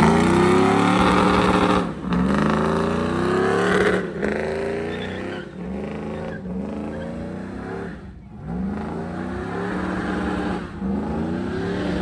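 A vehicle engine revving over and over, its pitch climbing and then dropping back every second or two.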